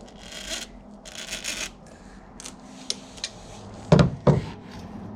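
A tool grinding and scraping against a stuck motorcycle oil filter canister as it is forced and crushed, with a few light clicks, then two loud knocks in quick succession about four seconds in.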